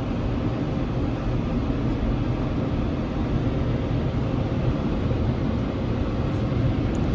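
Automatic car wash blower dryers running steadily, heard from inside the car being dried: a constant, even rush of air with a deep low rumble.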